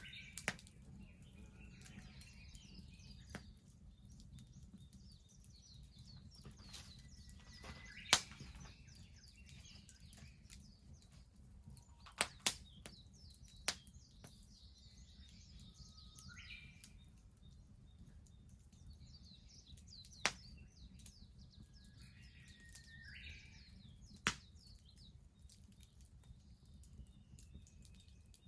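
Wood bonfire crackling, with a handful of sharp pops scattered through, the loudest about eight seconds in. Birds chirp and twitter over it.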